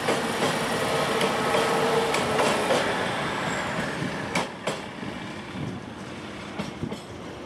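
A regional passenger train crossing a steel bridge, its wheels knocking over rail joints several times, and its running noise fading steadily as it draws away.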